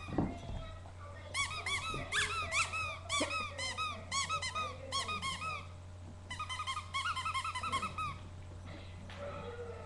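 Rapid high-pitched squeaking during dog play: two runs of short squeaks, each rising then falling in pitch, about four or five a second, with a short break between the runs. A steady electrical hum runs underneath.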